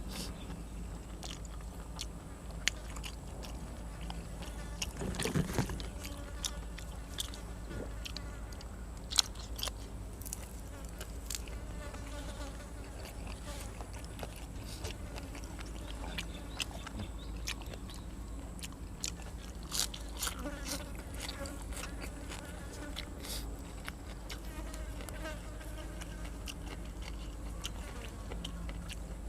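Close-up chewing and crunching of grilled cuttlefish and raw vegetables, with many short crisp bites scattered through and a louder cluster about five seconds in. An insect-like buzzing comes and goes in the background.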